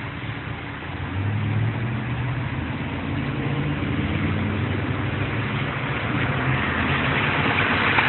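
A motor vehicle's engine running, with a low steady hum that comes in about a second in, under a hiss that grows louder toward the end.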